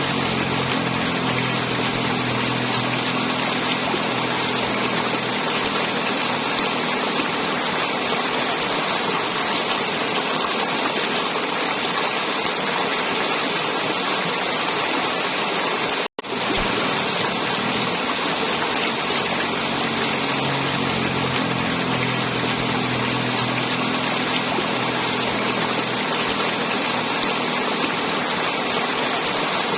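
River water flowing and gurgling steadily over rocks, with a brief split-second cut to silence about halfway through.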